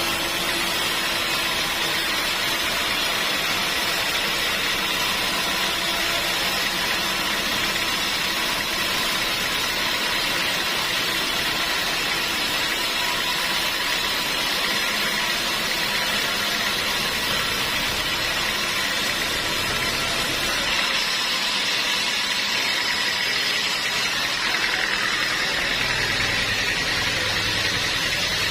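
Sawmill machinery running steadily: a loud, even mechanical noise with a whining hum and no pauses, with a little more low rumble near the end.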